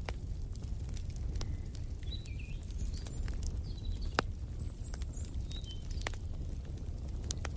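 Wood fire in a fireplace crackling, with frequent sharp pops and clicks over a low steady rumble of burning. A few short bird chirps come in about two to three seconds in and again around five to six seconds in.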